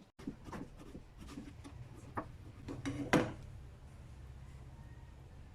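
Kitchen utensils being handled: scattered light knocks and clicks, with a louder clatter about three seconds in, then a faint steady hum.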